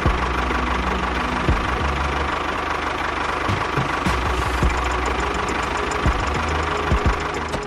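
Small engine of a DIY mini tractor running steadily, with a few sharp knocks scattered through it.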